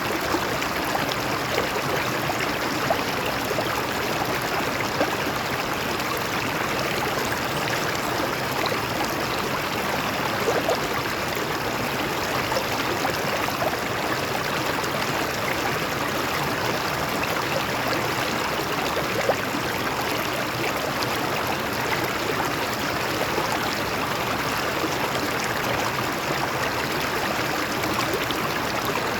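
Water of a stream flowing over rocks: a steady rushing with small gurgles and splashes.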